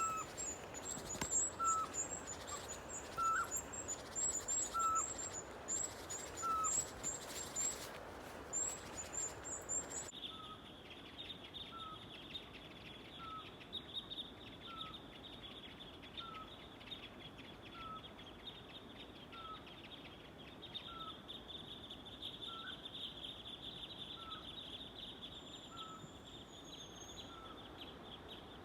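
Eurasian pygmy owl giving its song of evenly spaced single whistled notes, about one every one and a half seconds. Over the first ten seconds, high, thin calls of tits mobbing the owl sound above it. After that a steady high hiss continues under the owl's notes.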